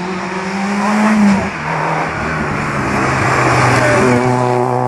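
Citroën Saxo rally car's engine running hard at high revs as it approaches. The pitch rises, drops sharply a little over a second in as it shifts up a gear, then climbs steadily again.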